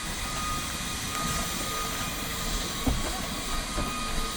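Steam locomotive with a steady hiss of steam, and a single short knock about three seconds in.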